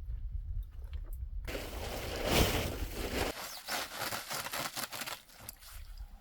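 A low rumble that starts suddenly, with crunching and scraping over it that are loudest about two and a half seconds in.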